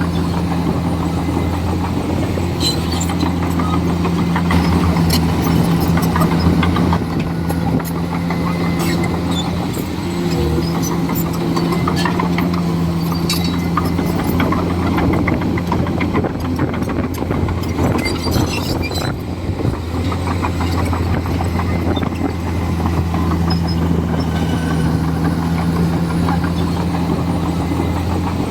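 Komatsu D41E bulldozer's diesel engine running steadily, with a brief dip in engine note about ten seconds in. Scattered clanks and clicks sound over it.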